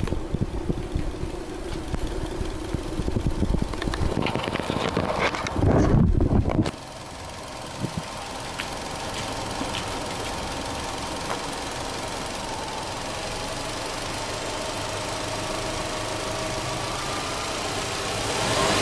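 Wind buffeting and handling noise on the microphone for the first several seconds. Then the Subaru Legacy B4 2.0GT spec B's EJ20 turbocharged flat-four idles steadily, and near the end it begins to rev, rising in pitch and level.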